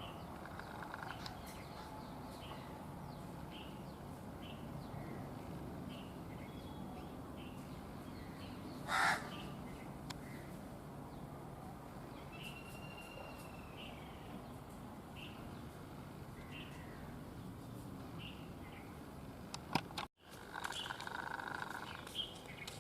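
Outdoor birdsong: a small bird chirping at a steady pace about once a second, with a single loud, harsh caw about nine seconds in. The recording drops out briefly near the end.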